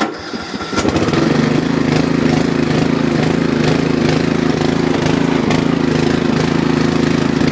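Cold start of a Yard Machines riding lawn mower's 13.5-horsepower engine on full choke: it cranks briefly, catches under a second in, and then runs steadily and loudly.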